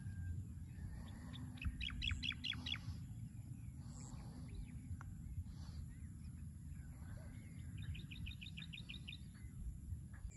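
A bird calling twice, each time a quick run of about eight short, high, evenly spaced notes, over a steady low background rumble.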